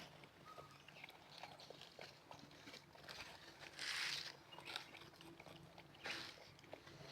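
Labrador puppies moving about and mouthing, faint small clicks and scuffs, with two short hissing bursts about four and six seconds in.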